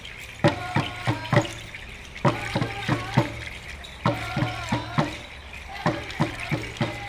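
Traditional drums beaten by a dance group in a repeating rhythm: quick groups of about five beats, a group roughly every two seconds.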